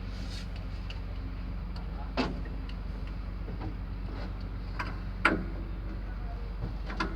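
A few sharp metallic knocks and clinks of tools and parts against metal, the loudest about two seconds in, just past five seconds, and near the end, over a steady low mechanical hum.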